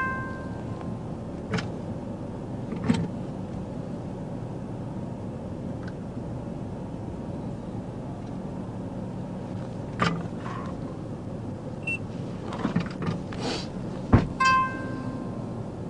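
Steady hum of an idling police patrol car heard from inside the cabin, with scattered clicks and knocks. A short electronic beep sounds at the start and again near the end.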